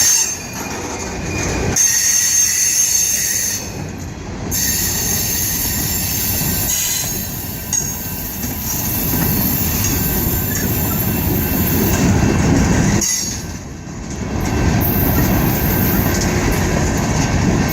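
Freight train cars rolling past, their wheels squealing against the rails over a steady rumble.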